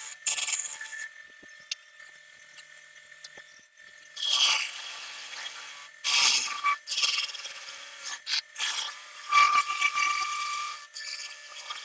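Wood being worked by hand in separate rubbing or scraping passes, a stroke every second or two, with a faint steady whine underneath.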